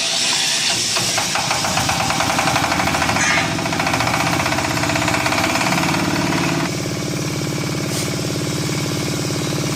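Diesel engine of a QT4-30 hydraulic concrete block making machine running, with a fast mechanical clatter on top. About two-thirds of the way through the clatter stops abruptly and the engine runs on steadily.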